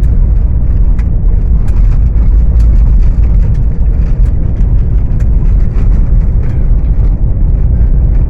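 Car driving, heard from inside: a loud, steady low road rumble with scattered small clicks.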